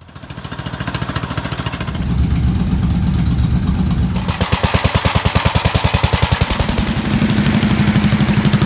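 Small single-cylinder engine of a Cub Cadet garden tractor running with an even, rapid putt, its note shifting a couple of times.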